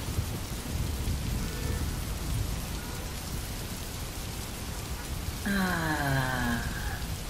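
Steady rain falling on wet pavement, an even patter. Near the end a voice hums a long 'mmm' that falls in pitch.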